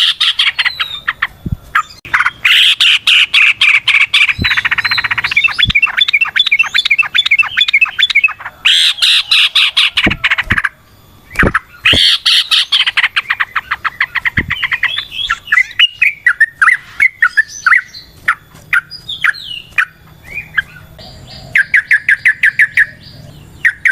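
Yellow-vented bulbul singing long runs of rapid chattering notes, broken by short pauses. Later the notes thin out into separate chirps, then pick up into another quick run near the end.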